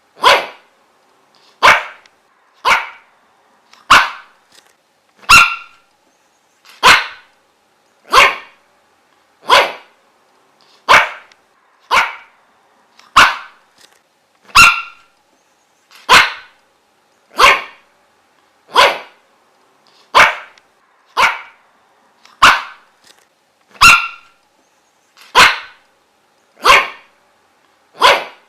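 A dog barking single sharp barks in a steady, unbroken rhythm, about three barks every four seconds.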